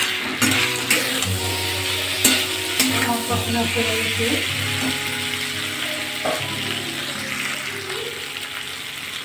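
Soya chunks, potato and elephant foot yam sizzling in oil and spice paste in a metal wok while a metal spatula stirs and scrapes them, with a few sharp clicks of the spatula against the pan. Soft background music plays underneath.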